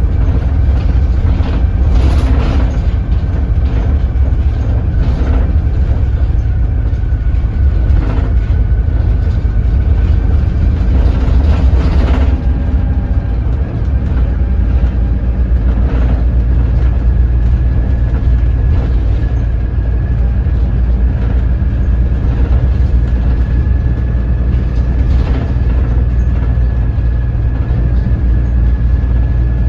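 Doosan DL08K diesel engine of a Daewoo BS106 city bus running at low revs, a deep steady drone with occasional rattles and knocks from the body. A faint steady whine runs over it.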